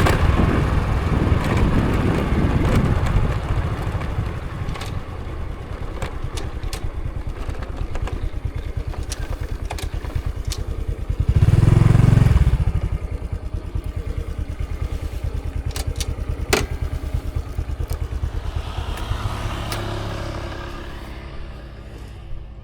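Honda Supra X 125 FI's single-cylinder four-stroke engine running as the motorcycle slows, settling into a quieter, steady pulsing idle. There is one brief louder low surge about halfway through and a few sharp clicks.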